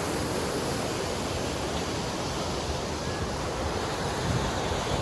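Waterfall rushing, a steady, even roar of falling water over rocks.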